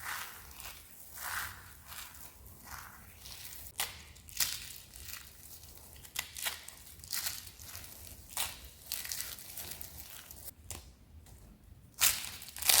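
Crispy soap crunching in irregular crackly bursts, with a pause about ten and a half seconds in and a loud crunch near the end.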